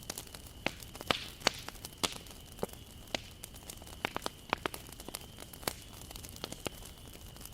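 Wood fire crackling: a dozen or so irregular sharp pops and snaps over a soft steady hiss, with a faint steady high whistle underneath.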